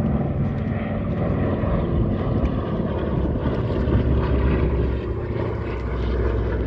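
Propeller airplane engines running in a steady low drone, a little louder about halfway through.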